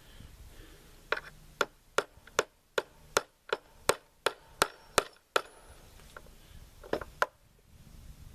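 Light hammer taps on metal gunsmithing work: about a dozen sharp, evenly spaced strikes at a little over two a second, then a short pause and two more.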